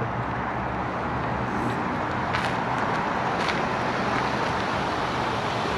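Steady vehicle and traffic noise with a low engine hum. Two short clicks come about two and a half and three and a half seconds in.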